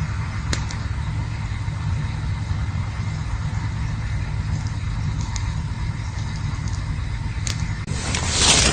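Campfire burning with a steady low rumble and a few sharp crackles. Near the end a louder rushing hiss swells up.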